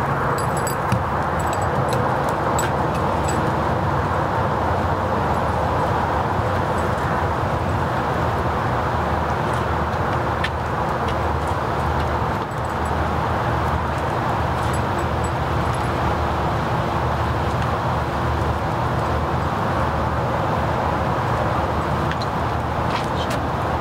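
A motor vehicle's engine idling steadily close by, an even, unbroken running sound with a low hum, with a few faint high clicks now and then.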